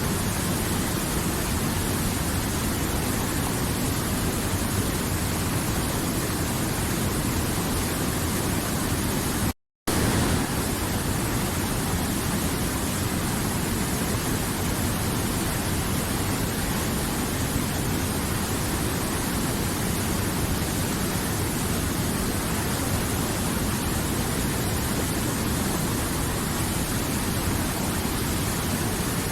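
River water flowing, a steady full rushing sound. About ten seconds in it cuts out to silence for a split second, then resumes unchanged.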